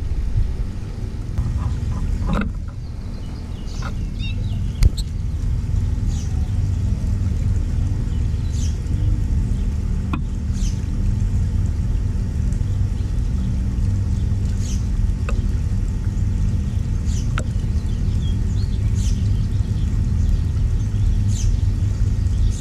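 Steady low rumble, with short high bird chirps every couple of seconds and two sharp clicks.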